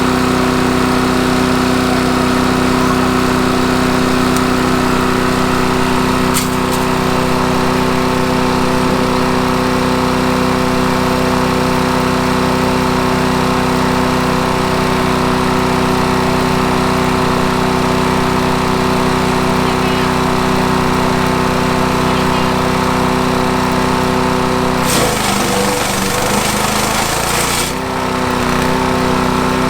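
Small gasoline engine of a wood chipper running steadily at speed. Near the end a loud rush of grinding noise lasts about three seconds while the engine's pitch dips under load, as a branch is fed through and chipped.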